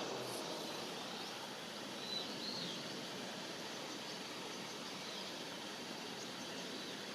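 Steady rush of flowing river water, with a few faint, brief high bird calls over it.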